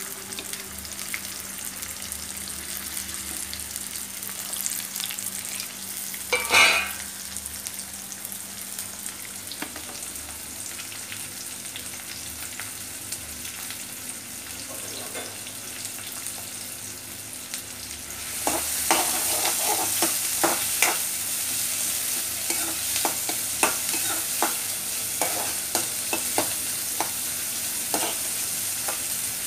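Chopped onions, green chillies and curry leaves sizzling in oil in a steel kadai, with one brief loud clatter about six seconds in. About two-thirds of the way through the frying gets louder as a spoon stirs them, scraping and knocking against the pan.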